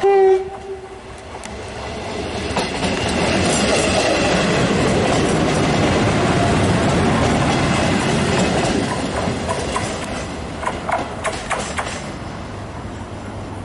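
A short, single-pitched horn blast, then a diesel rail vehicle passing by. Its running noise builds and fades away, with a few wheel clacks over the rail joints near the end.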